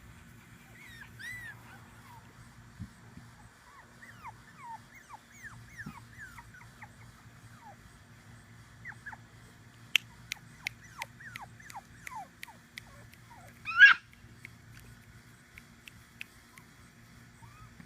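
Five-week-old Tibetan Terrier puppies whimpering and squeaking in many short, falling cries, with one louder yelp late on. A quick run of sharp clicks comes around two thirds of the way through.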